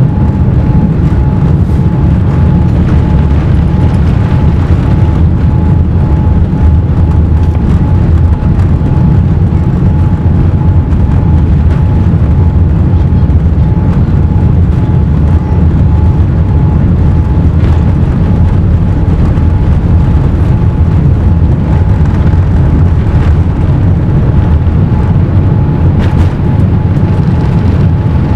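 Boeing 787 engines and airflow heard from inside the economy cabin during takeoff, a loud steady low rumble with a thin steady whine above it.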